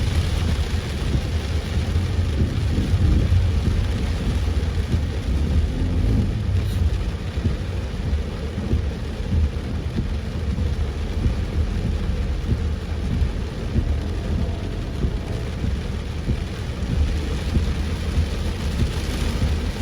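Heavy rain falling steadily on a moving car, a continuous hiss of rain over a deep, steady low rumble.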